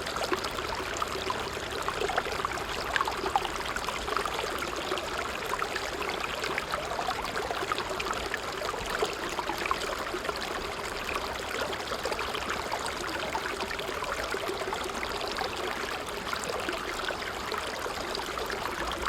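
A small stream running over stones, a steady babble of trickling and gurgling water.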